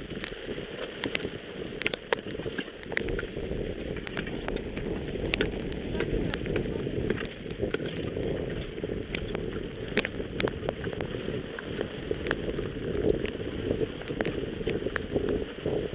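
Rain falling, a steady hiss with many irregular sharp ticks of drops striking a nearby surface.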